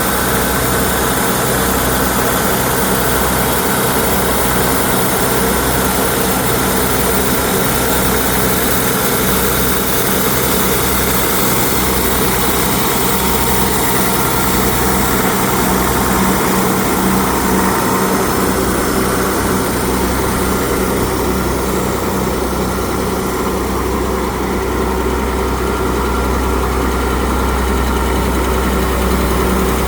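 An engine running steadily at idle, its hum unchanging.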